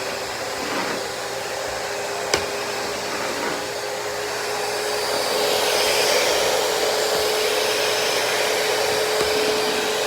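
Shark VM252 VacMop Pro cordless vacuum mop running: a steady motor whine over a rush of air, with one sharp click about two seconds in, getting a little louder about halfway through.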